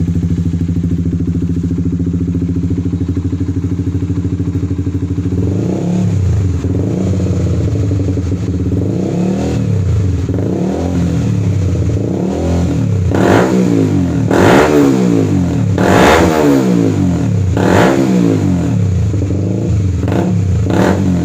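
Honda CB150R's single-cylinder engine running through a newly fitted SKR aftermarket racing exhaust. It idles steadily at first, then from about five seconds in it is revved repeatedly, the later throttle blips sharper and louder.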